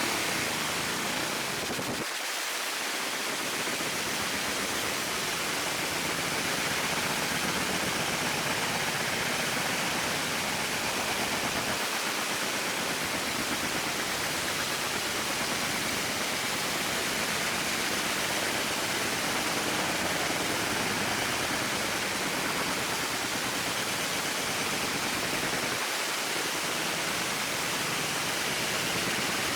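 Steady, even rushing hiss with no distinct tones or clicks, typical of air moving through a fan or extractor. It thins briefly in the low end about two seconds in.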